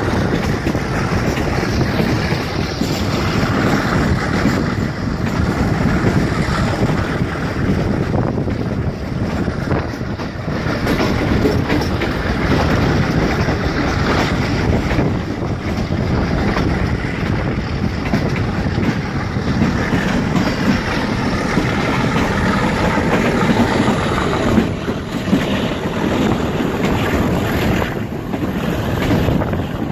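Running noise of a moving passenger train heard from an open window of the coach: a steady rumble of wheels on rails with clattering clicks, and wind blowing on the microphone.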